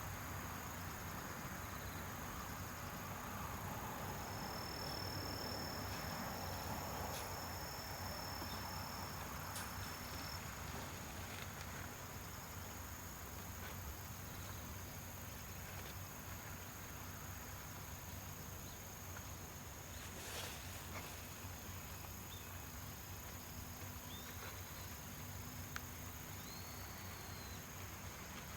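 Faint, steady outdoor background: an even hiss with a low hum underneath, a thin high whistle for several seconds early on, and a few short high chirps near the end.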